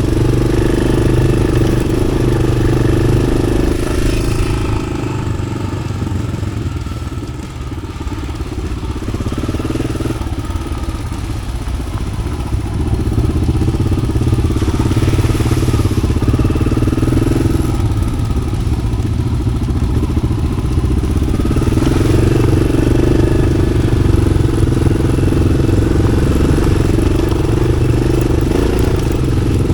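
Yamaha XT600's single-cylinder four-stroke engine with an Arrow aftermarket exhaust, running under way off-road. The engine note eases off about five seconds in and picks up again after about a dozen seconds as the throttle varies.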